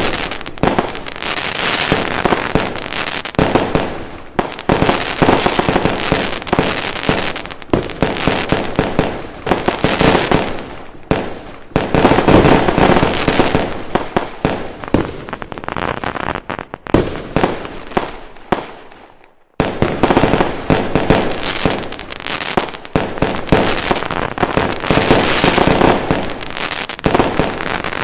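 Fireworks going off in a dense, continuous barrage of bangs and crackles. About two-thirds of the way through, the barrage dies away almost to nothing, then suddenly resumes at full intensity.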